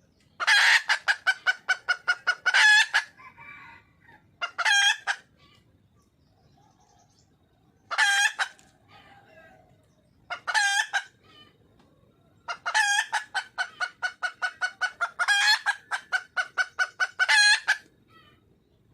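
Wild red junglefowl hen calling for a mate: bouts of quick, ringing clucks at about five or six a second. Several short bouts are followed by a longer run of about five seconds near the end.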